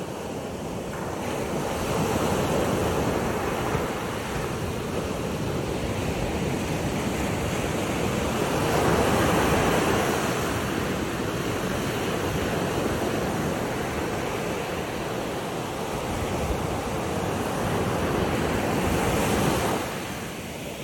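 Ocean surf: a steady rush of waves washing in, swelling louder and easing off every several seconds.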